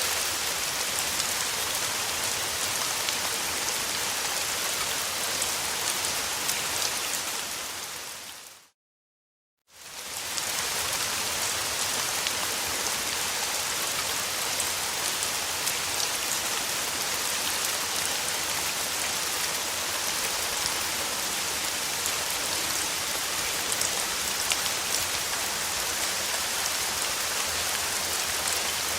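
Steady summer rain falling, with fine ticks of individual drops. About nine seconds in it fades out to a second of silence and fades back up.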